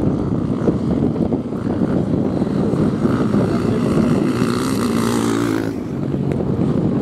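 Motocross motorcycle engines running hard and revving, as at a race. One bike's engine note grows louder and brighter from about halfway in, then drops off suddenly.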